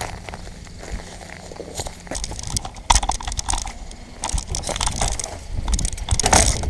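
Loose gravel crunching in irregular bursts, louder about three seconds in and again near the end.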